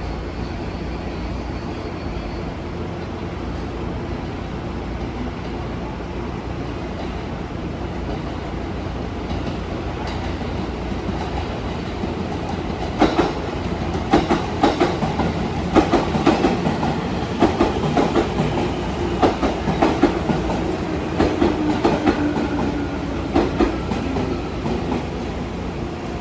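A train passing on the track: a steady rumble that builds, then from about halfway a long run of wheel clacks over rail joints that eases off near the end.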